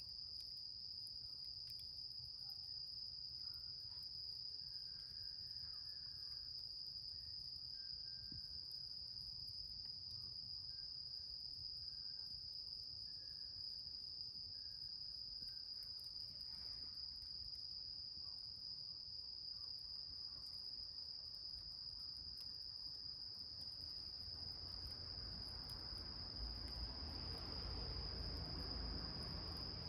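Crickets trilling steadily in one continuous high-pitched tone, with faint scattered crackles from the small fire. In the last few seconds a low rumbling noise grows louder underneath.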